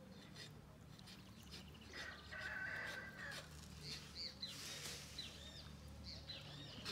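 Birds chirping, with many short arching calls from about four seconds in, over a faint steady low hum.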